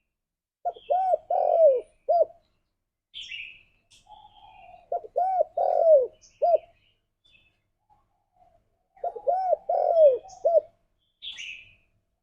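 Spotted dove cooing: three phrases, each of four or five short, arched coo notes with a longer note that slides down near the end. Short, higher chirps sound between the phrases.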